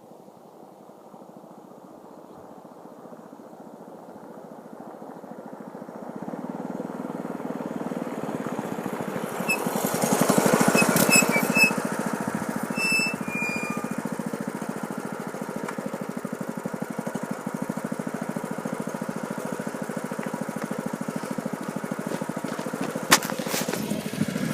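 Baja Warrior 200 mini bike's single-cylinder engine, run without its stock gear reduction, growing louder as the bike rides in and loudest about ten seconds in, then running steadily close by. A sharp click near the end.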